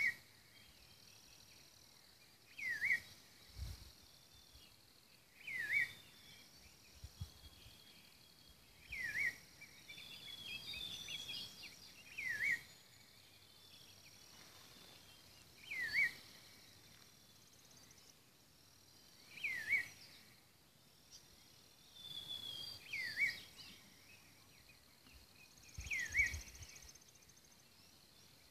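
A bird repeats a short call that dips in pitch and rises again, about every three to four seconds. Under it runs a steady, high-pitched insect drone.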